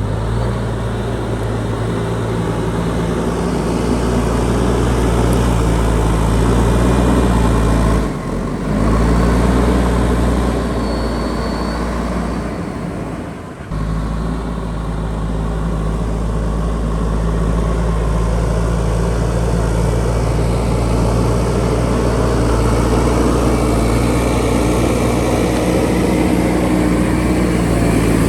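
JCB backhoe loader's diesel engine running steadily while it works, dropping away briefly twice, about eight and thirteen seconds in.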